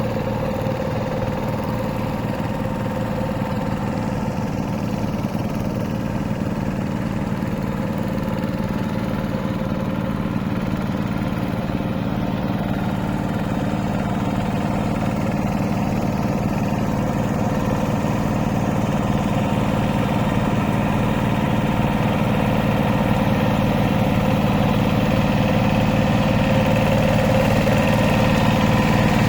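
Hand tractor's engine running steadily with an even low chugging, growing slightly louder near the end.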